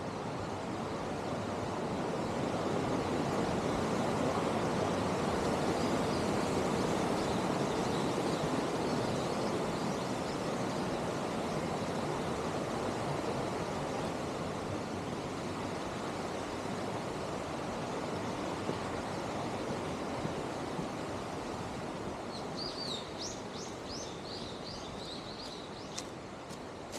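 Mountain stream rushing in a steady wash of water noise. It grows louder a few seconds in, then slowly eases off. Near the end a bird chirps a quick run of high notes.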